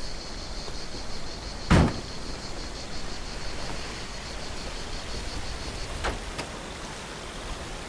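Insects chirring in a steady, finely pulsing high tone that stops about six seconds in. A single loud thump comes about two seconds in, with a fainter knock near six seconds.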